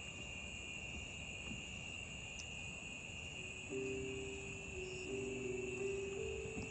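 A steady, unbroken high-pitched insect chorus, the continuous trilling of crickets or similar insects. Soft background music with long held notes comes in about halfway through.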